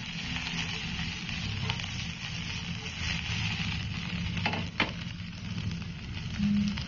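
BBQ-marinated chicken fillet with green bell pepper and onion sizzling steadily on a hot grill, with two sharp clicks about two-thirds of the way through.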